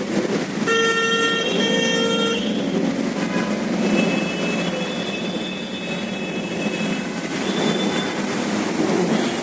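A vehicle horn honks twice in quick succession about a second in, with a fainter, higher horn sounding for a few seconds midway, over steady street traffic noise.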